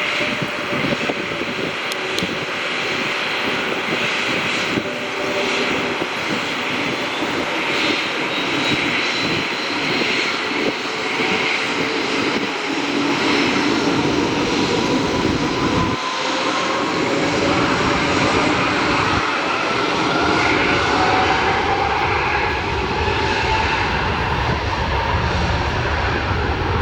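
Airbus A320 jet engines running: a steady rush of noise with whining tones that slowly rise in pitch over the second half.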